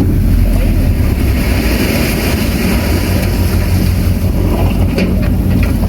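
Diesel engine of heavy earthmoving machinery running steadily, with a few short clicks or clanks.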